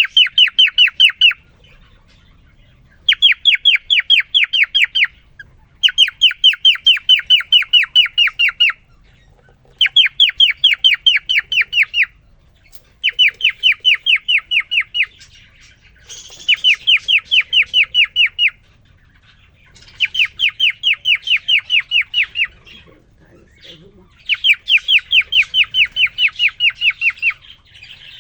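Male cockatiel singing in repeated bouts of quick, evenly spaced falling whistled notes, about eight bouts each lasting two to three seconds with short pauses between. This is courtship song directed at a female just put in with him.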